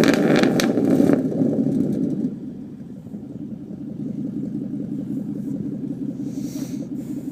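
A 2012 Ford Mustang GT's 5.0 Coyote V8, through a Roush exhaust with an off-road H-pipe, coming down from a rev with crackles, then settling into a steady pulsing idle about two seconds in.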